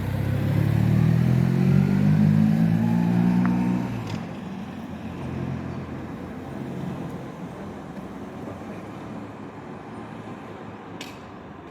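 A car passing close by on the road, its engine note rising as it accelerates for about four seconds, then fading as it moves away.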